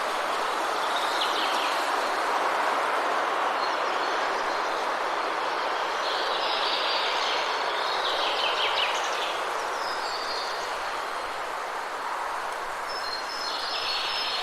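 Songbirds chirping in short bouts, about a second in, for a few seconds near the middle, and again near the end, over a steady rushing background noise.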